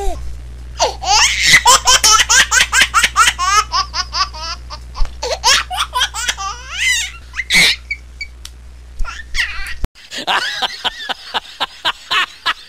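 A person laughing hard in rapid, breathy bursts over a steady low hum. The hum cuts off suddenly near the end, and more laughter follows straight after.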